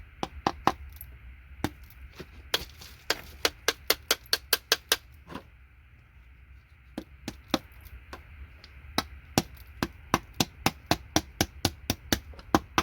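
Quick runs of sharp clicks from small gold-plated connector pins being worked free by hand, about four or five a second, with a short pause midway.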